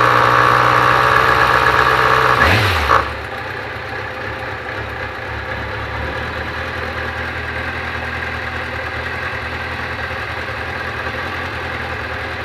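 Kawasaki ZZR400 inline-four motorcycle engine running at raised revs, then the revs fall about three seconds in and it settles into a steady idle.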